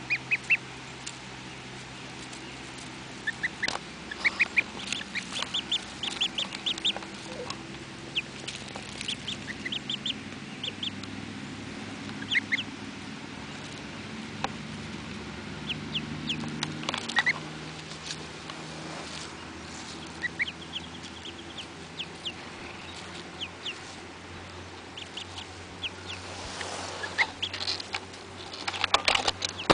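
Baby duckling and gosling peeping: short high peeps coming in quick runs of a few at a time, scattered throughout, over a faint steady low hum.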